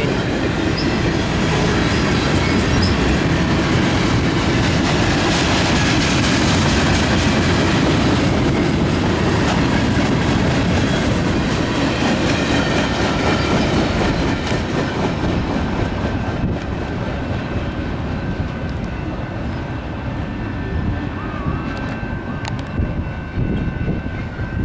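Canadian National local freight train rolling past at close range, its wheels clicking over the rail joints with a steady rumble. The sound eases somewhat past the middle, and a faint steady wheel squeal shows in the later part.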